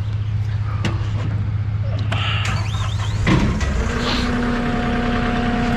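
Diesel truck engine idling steadily, with a few sharp clicks in the first half. A little past halfway a thump comes, then a second steady, humming drone joins the idle.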